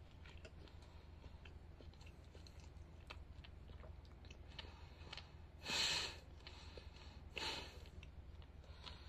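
A person chewing a mouthful of tender roast beef, with faint wet mouth clicks. Two short puffs of breath come a little past halfway and again about a second and a half later.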